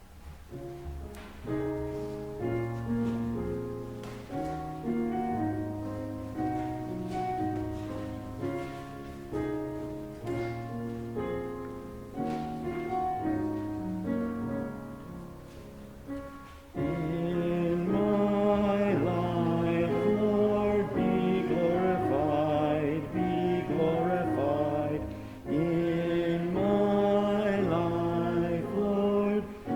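A hymn's instrumental introduction played on a keyboard. About seventeen seconds in, it becomes louder as a congregation starts singing the hymn with the accompaniment.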